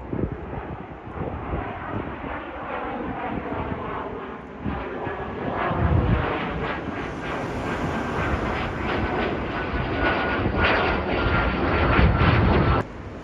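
Wide-body jet airliner's turbofan engines close by, the roar building over the first few seconds, with a thin high whine that drifts slightly down in pitch. It cuts off suddenly shortly before the end.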